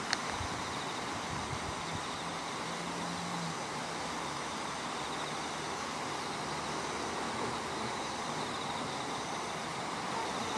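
Steady outdoor background noise, an even hiss, with a faint high trill over the first half and a faint low hum between about one and three seconds in.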